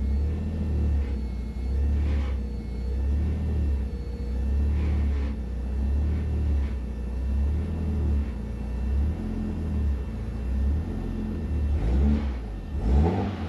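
Nissan Skyline R33 engine idling with a steady, slightly pulsing low rumble, then revved up and back down near the end.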